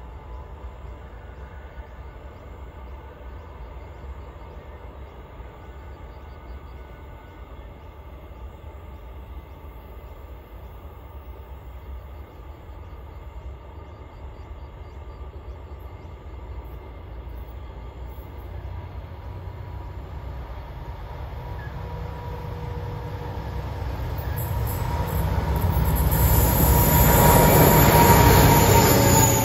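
Diesel-hauled freight train approaching, its low engine and wheel rumble building steadily and loudest near the end as the locomotives draw level. A faint whine drops in pitch as they pass.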